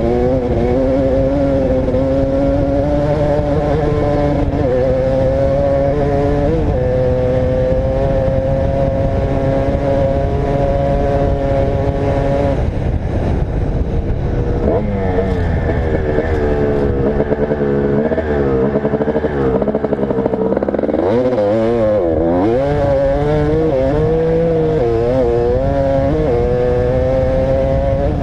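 Motocross dirt bike engine under riding load. It holds steady high revs for the first dozen seconds, then the revs rise and fall quickly with the throttle for most of the rest.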